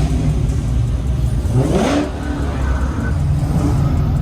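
Car engine running with a deep, steady rumble, blipped once about one and a half seconds in, its pitch rising and then falling away.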